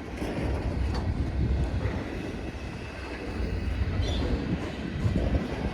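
Freight train rolling past on the rails: a steady low rumble with a few faint clicks.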